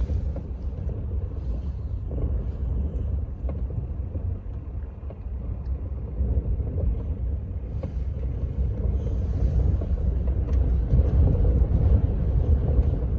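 Strong wind gusts buffeting a camper van, heard from inside as a deep rushing rumble that swells and eases. The gusts build again about halfway through and are strongest near the end.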